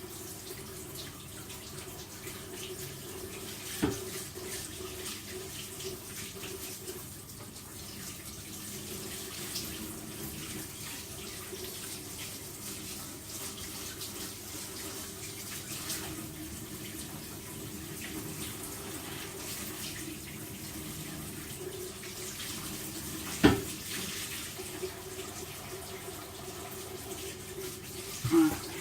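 Tap water running steadily into a sink, with a light click about four seconds in, a sharp knock near the end, and another click just before it ends.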